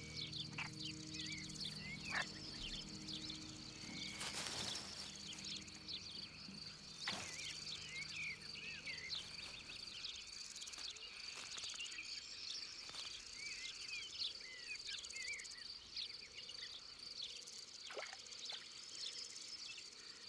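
Countryside wildlife ambience: a steady high insect trill, like crickets, runs throughout, with many short chirping bird calls over it and a few faint clicks. Soft held music notes underneath fade out about halfway through.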